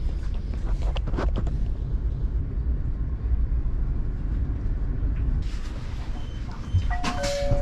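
Steady low rumble of a high-speed train carriage interior while the train runs, with a few faint clicks early on and a rising hiss later. Near the end, two held tones sound one after the other, the second lower.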